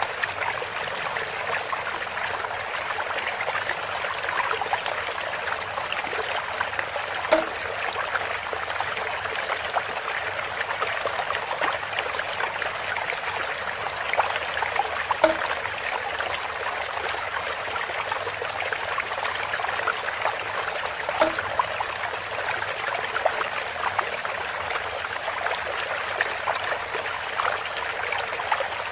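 Water running and trickling through bamboo in a steady, even flow, with a short hollow pitched plunk every seven or eight seconds.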